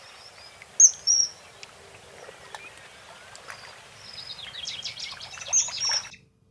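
Wild birds calling and singing: loud, short, high whistled notes about a second in, more chirping and a quick run of song toward the end, then a sudden cut-off just before the end.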